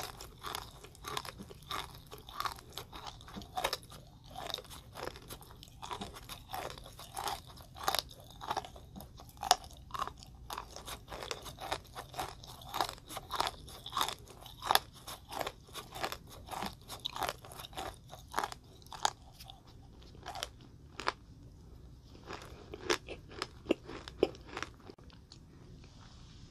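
Close-up chewing of a Nerds Rope: the tiny hard Nerds candies coating the gummy rope crunch and crackle between the teeth in quick, irregular bites, thinning out near the end.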